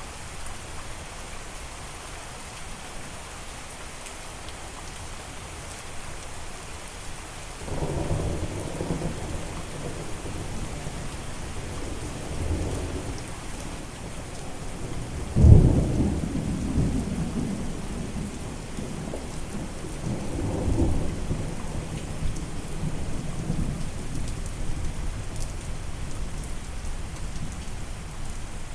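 Steady rain with thunder rolling through it: low rumbles about eight seconds in and again around twelve, a sharp, loud thunderclap about halfway through that rumbles on for several seconds, and another roll a few seconds later.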